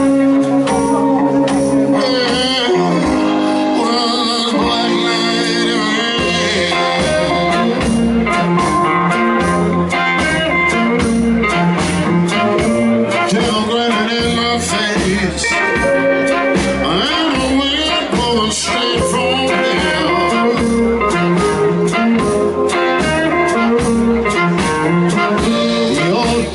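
Live blues band playing an instrumental passage between sung verses, with guitar over a steady bass line and drums.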